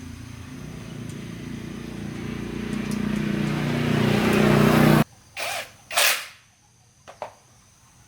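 A motor running with a steady low hum, growing louder for about five seconds and then cut off suddenly, followed by two short hissing bursts.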